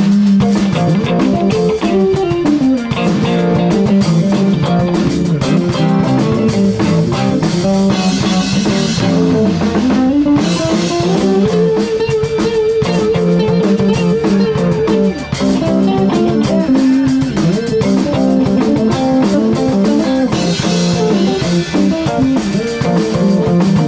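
A rock band playing live: guitars, bass guitar and a drum kit, with a long held note that wavers with vibrato about halfway through.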